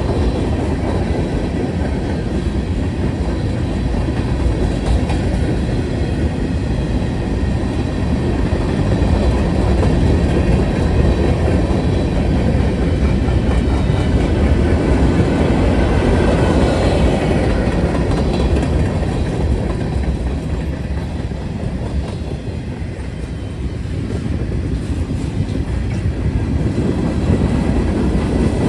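Freight train cars rolling past with a steady rumble and wheel clatter, swelling in the middle and easing for a moment near the end.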